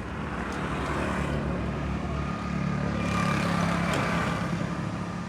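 An engine running with a steady low hum, growing louder to a peak just past the middle and then easing off, as if passing by.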